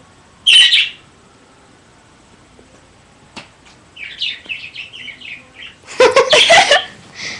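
Caged pet bird calling: a short loud squawk about half a second in, then a quick run of high chirps from about four seconds, and a louder, longer burst of calling near the end.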